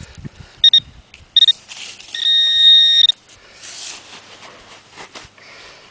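Metal detector's electronic target signal: two short beeps, then a steady tone of about a second as it locates the buried metal target. Faint scraping and clicks of digging in sand between them.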